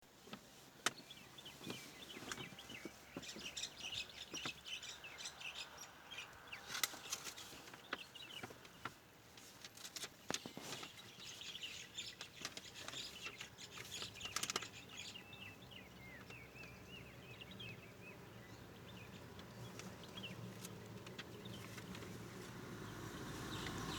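Small birds chirping and twittering, many short high calls, thinning out after about two-thirds of the way through, with scattered sharp clicks. A low rumble builds toward the end.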